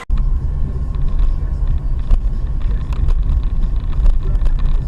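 A car driving, with a steady low rumble of engine and road noise heard from inside the vehicle. A faint steady tone and a few light clicks sit above it.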